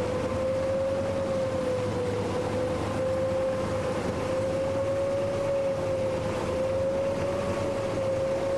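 Boat engine running steadily, a droning tone that wavers slightly in pitch, over a steady rush of wind and water.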